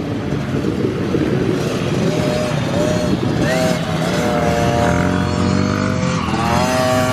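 Honda CRF50's small four-stroke single-cylinder engine running under a rider, its pitch climbing several times as the throttle opens, most strongly in the second half.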